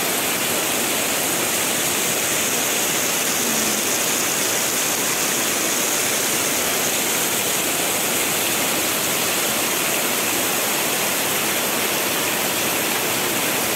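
Heavy rain pouring steadily onto standing floodwater, the drops splashing on the water's surface in an even rushing hiss.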